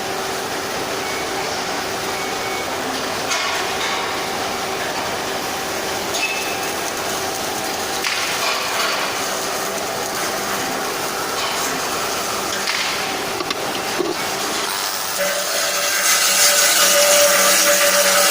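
Metal workshop noise: a steady machine hum with a few scattered clinks of metal. Near the end a power tool starts up, louder, with a higher, hissing sound.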